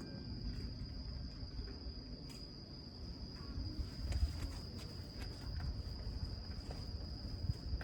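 Insects trilling in one steady, unbroken high-pitched tone, over a low rumble and a few faint clicks.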